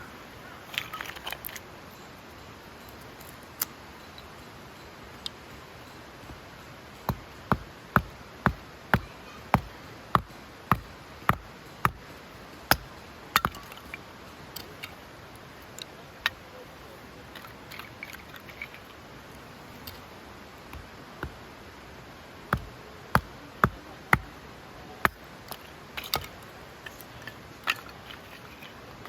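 A series of sharp knocks in runs of about two a second, with scattered single knocks between the runs.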